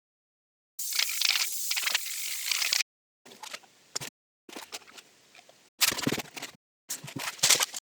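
A string of short, abruptly cut bursts of scraping and rattling handling noise with sharp knocks, as from wood pieces and tools being moved about.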